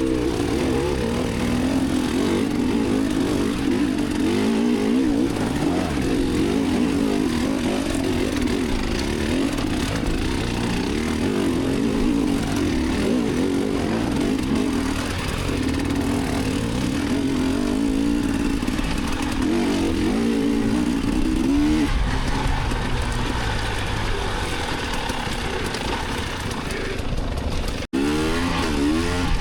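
Dirt bike engine running under riding load, its revs rising and falling continuously, with a brief break near the end.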